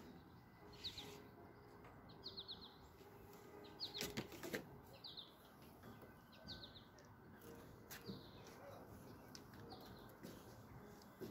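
Faint bird chirping: short runs of quick high notes repeating about once a second, with a few soft knocks about four seconds in and near eight seconds.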